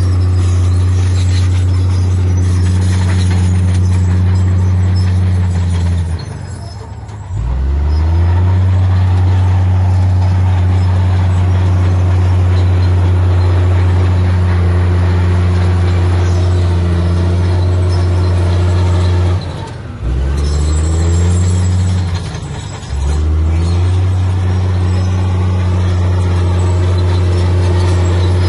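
Heavy diesel engine of earthmoving machinery running steadily at high revs. The revs drop off sharply three times, about six, nineteen and twenty-two seconds in, and each time climb back up.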